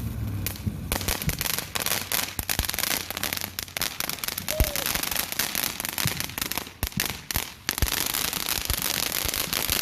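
Fireworks crackling: a dense run of rapid pops and crackles that starts about a second in, with two brief breaks in the second half.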